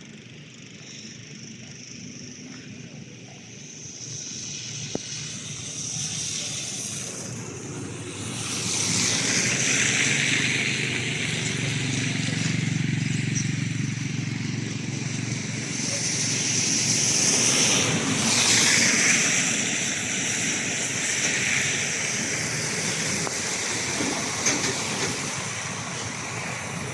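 A motor vehicle running, with a broad rushing noise that grows louder about eight seconds in and stays loud.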